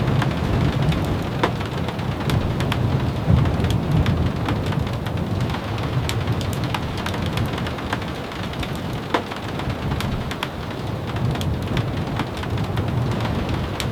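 Steady rain with a wavering low rumble under it and scattered sharp clicks or pops throughout.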